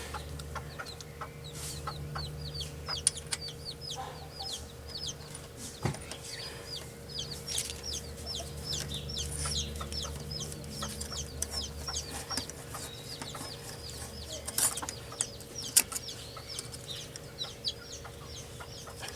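Birds chirping rapidly and chickens clucking, with a few sharp clicks and knocks of work on the car and a faint steady hum underneath.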